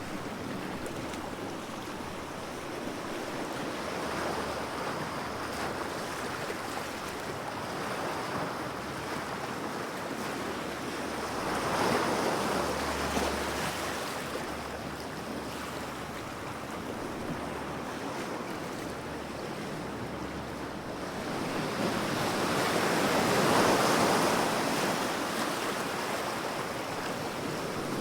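Ocean waves washing in as a steady surf, swelling louder about twelve seconds in and again around twenty-three seconds.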